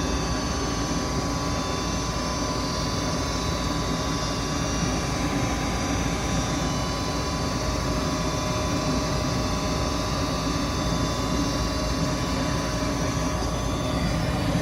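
Goodman gas furnace running steadily with its burners lit and its fans turning: an even hum with a few steady tones, while the gas pressure is being set after a propane-to-natural-gas conversion.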